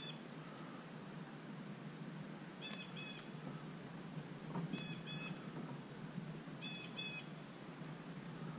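A bird giving a short two-note call four times, about every two seconds, over a steady low background rumble.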